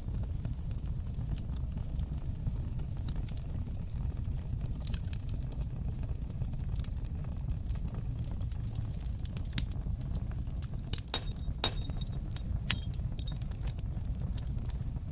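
Open fireplace fire crackling: a steady low rumble of flames under scattered sharp pops and snaps, which bunch together late on and peak in one loud pop.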